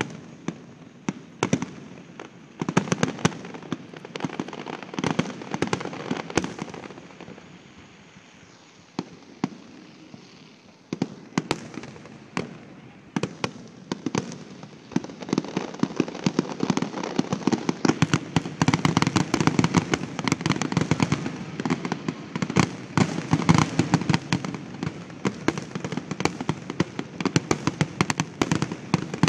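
Aerial fireworks display: repeated sharp bangs and crackling bursts. The bursts thin out for a few seconds near the first third, then come thick and fast through the second half.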